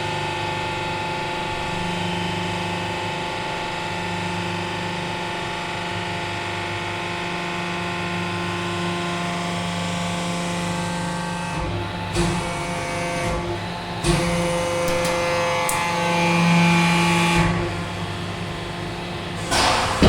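500-ton hydraulic press's pump and motor running with a steady droning hum as it presses, the note shifting several times in the second half. Short crackles come in the middle, and a loud sharp crack comes just before the end.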